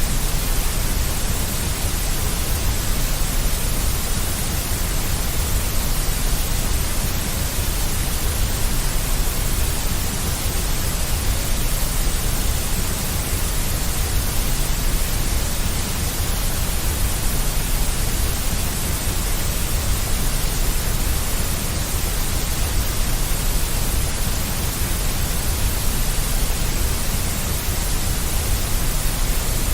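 Steady, unchanging deep white noise: an even hiss across the whole range with a strong low rumble underneath, played as a sleep sound for a baby.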